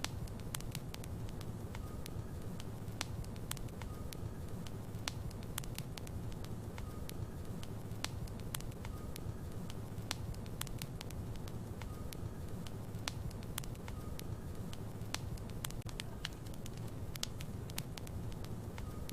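Logs burning in a fireplace: a steady low rumble of the flames with frequent, irregular sharp crackles and pops from the wood.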